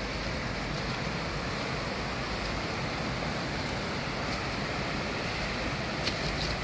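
Steady rushing roar of falling water from a waterfall, with a few faint clicks near the end.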